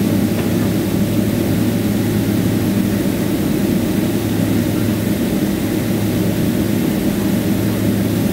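Jet airliner engines and airflow heard from inside the passenger cabin: a loud, steady low hum that holds at one level during the departure from the runway.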